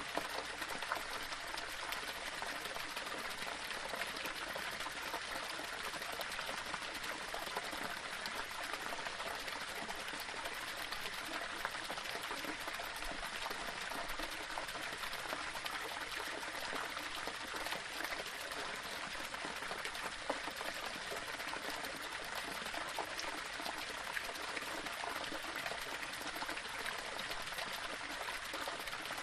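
Small waterfall splashing and running over stones in a steady rush, with small splashes ticking through it.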